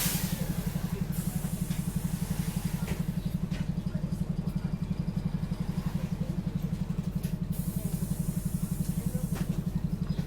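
Optare Solo bus engine idling with a low, fast, even throb.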